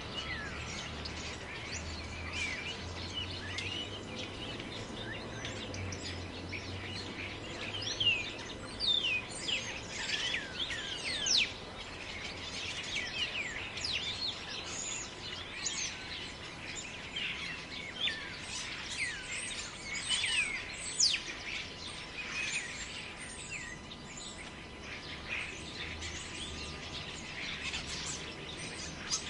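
Forest birds chirping, with many quick, steeply rising and falling whistled notes, busiest in the middle, over a steady low rumble of wind.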